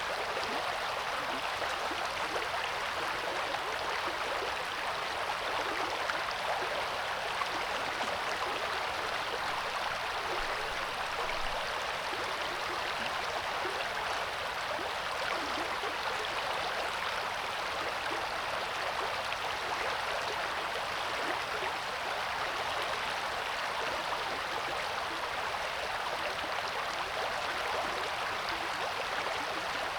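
Coeur d'Alene River flowing, a steady rush of moving water.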